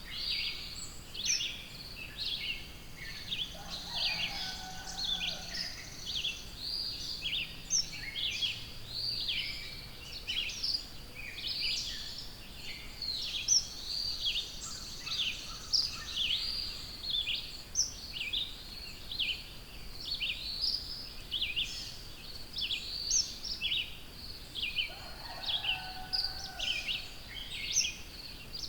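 Several songbirds singing at once, a dense chorus of quick high chirps and trills that never lets up. A lower call joins in twice, about four seconds in and again near the end.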